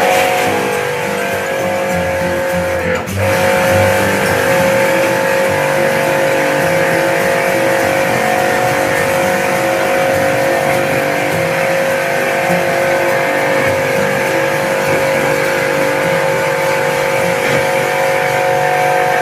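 A machine running steadily, a constant hum with a hiss over it, briefly broken about three seconds in.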